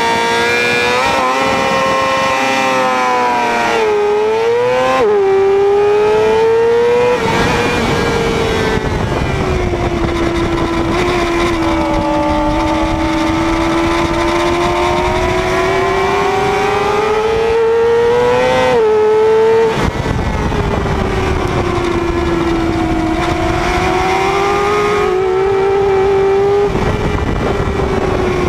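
600 cc supersport racing motorcycle engine heard from on board, revving hard as it pulls away and climbing through several quick upshifts in the first five seconds, then held at high revs with the pitch slowly rising and falling through long corners. A shift drops the pitch suddenly a little before 20 seconds in, and heavy wind rush runs under the engine from about seven seconds on.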